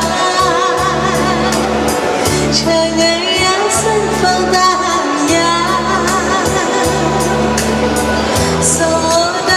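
A woman singing a Chinese ballad with wide vibrato over accompaniment with held bass notes that change every second or so.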